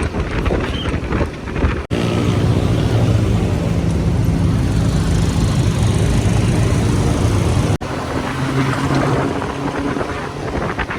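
Motorcycle engine running at a steady speed while riding, with wind noise on the microphone. The audio cuts abruptly twice, about two seconds in and near eight seconds. Between the cuts the engine's steady hum is loudest.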